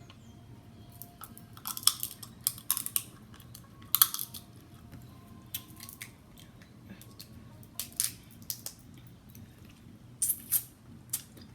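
Snow crab leg shells being cracked and snapped apart by hand: a scatter of sharp cracks, in clusters about two seconds in, four seconds in (the loudest), eight seconds in and ten seconds in.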